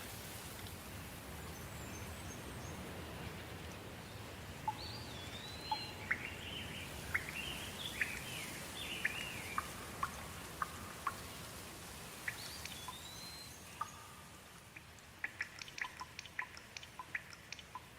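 Steady soft rain with birds calling over it: a few rising-and-falling whistled notes and a run of quick chirps through the middle. Near the end the rain hiss thins out and scattered sharp drips take over.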